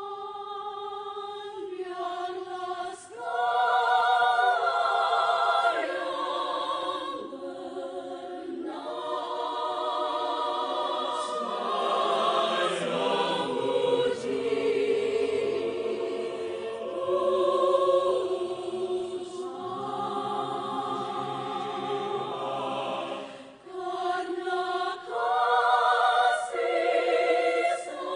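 A choir singing sustained notes in several parts, the voices wavering with vibrato, with brief breaks between phrases about three seconds in and again about 23 seconds in.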